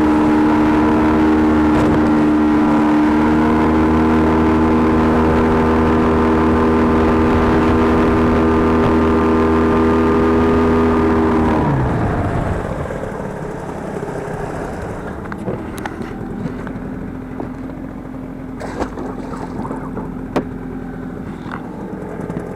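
Boat's outboard motor running steadily under way, then throttled back about halfway through: its pitch drops quickly and it settles into a quieter, low idle, with a few light knocks near the end.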